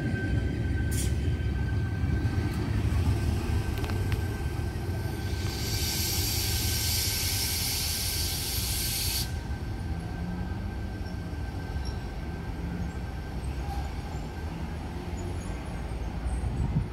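Double-deck electric suburban train rumbling at the station, with a loud air-brake hiss about five seconds in that lasts roughly four seconds and cuts off suddenly.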